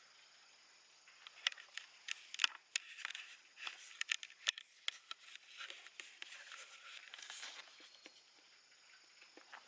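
Cat licking its fur while grooming: irregular quick wet clicks and soft rustles, thickest in the middle and thinning out near the end.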